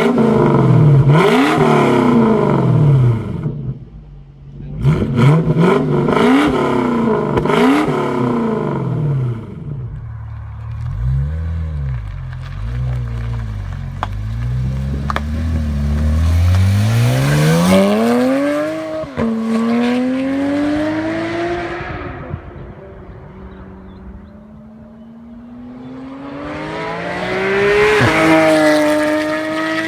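Car engine and exhaust revving in a run of quick throttle blips, then accelerating hard. The pitch climbs steadily and drops sharply at a gear change, twice.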